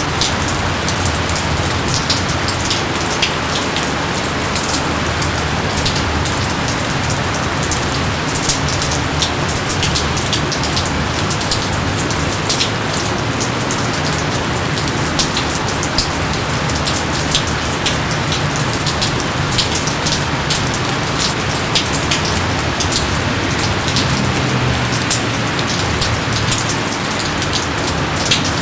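Steady heavy rain falling on foliage and ground, a dense even hiss scattered with many sharp, close drop splashes.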